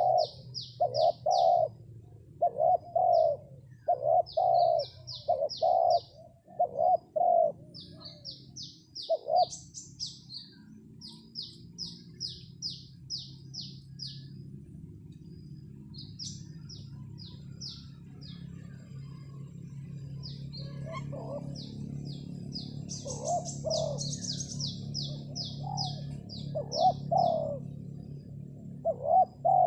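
Spotted doves cooing in short repeated notes, with small birds chirping above them in quick runs of high notes. The cooing stops for about ten seconds in the middle, while a low steady hum rises underneath and stays to the end.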